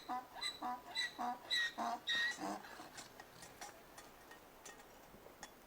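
Donkey braying: a run of short, squeaky high-pitched calls about two or three a second, ending with a lower call about two seconds in.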